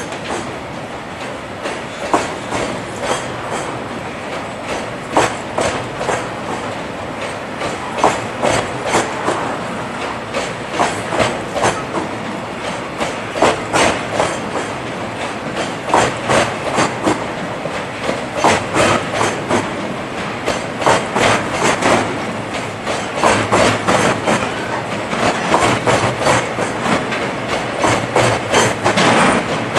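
Oil tank wagons of a departing freight train rolling past, their wheels clicking over the rail joints in pairs over a steady rumble. The clicks come more often toward the end as the train gathers speed.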